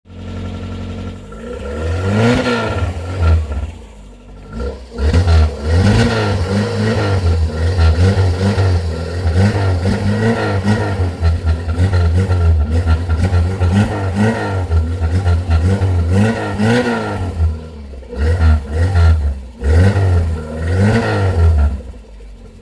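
Renault Super 5 GT.L's 1.1-litre four-cylinder petrol engine, breathing through a GT Turbo exhaust, revved again and again with quick throttle blips that rise and fall about once a second for much of the time, then a few separate revs near the end.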